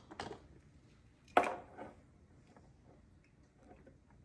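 A single sharp knock about a second and a half in, amid faint small taps and clicks, as of utensils in use.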